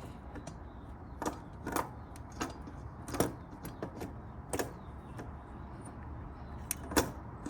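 Scattered light clicks and knocks of hands working metal and rubber parts while fitting the carburetors into the intake boots, about a dozen irregular taps with the sharpest near the middle and toward the end.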